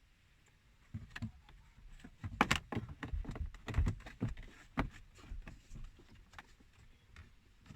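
Plastic dashboard trim being handled and fitted back into place: an irregular run of knocks, clicks and low thumps, busiest about one to five seconds in.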